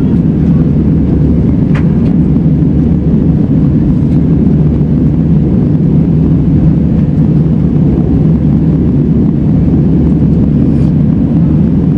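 Steady, loud cabin noise of an airliner in flight: a low, even rumble of engines and airflow.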